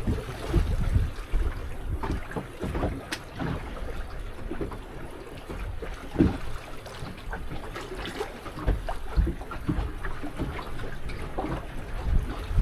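Wind buffeting the microphone and water slapping against a small boat's hull, with irregular low thumps and the odd sharper knock.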